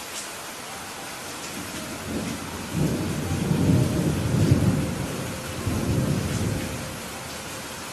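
Steady rain falling, with a roll of thunder that builds about two seconds in, rumbles loudest through the middle with a second swell, and dies away near the end.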